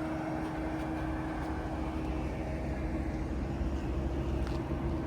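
A vehicle running: a steady low rumble with a constant hum, no changes.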